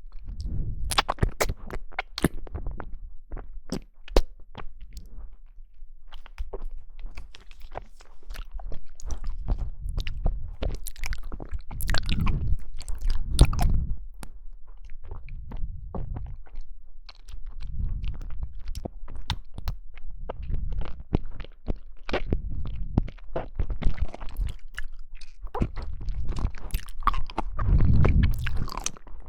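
A person chewing and biting jelly: many sharp clicks over low mouth sounds, in irregular bursts of chewing.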